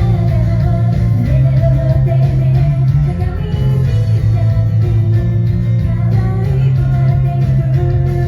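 Live rock-band music with a sung melody over guitar and a steady heavy bass.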